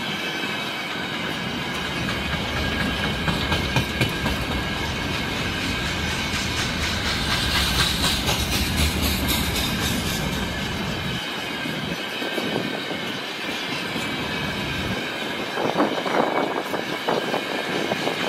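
Freight train's tank wagons rolling past: a steady rumble and clatter of steel wheels on the rails, with a thin high ringing tone from the wheels over it.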